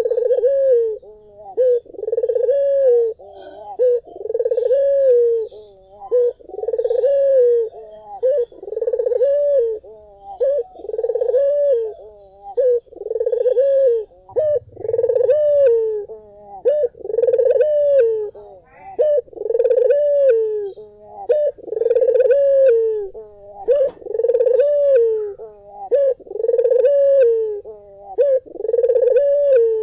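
Puter (Barbary dove) cooing over and over, a steady string of rounded coos at about one a second, each rising then dipping in pitch.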